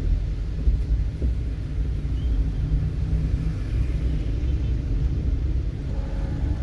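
Steady low rumble of a moving vehicle, with no clear events standing out.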